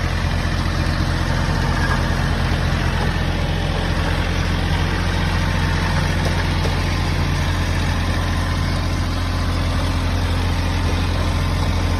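Tractor engine running steadily at an even pitch while the tractor is driven.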